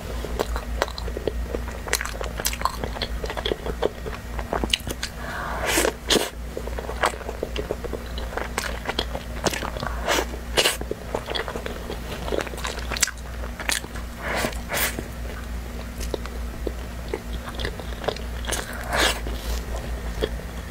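Close-miked biting and chewing of a toasted bread piece with ketchup: crisp crust crunching and wet mouth clicks, with a few louder bites standing out among the steady chewing.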